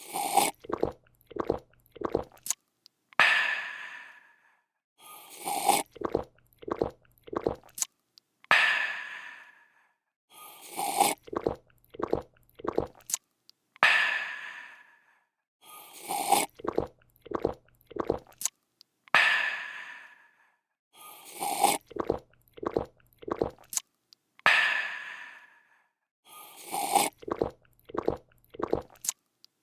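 A person drinking: a slurp, then four or five quick gulps, then a breathy refreshed 'aah'. The same cycle repeats about every five and a half seconds.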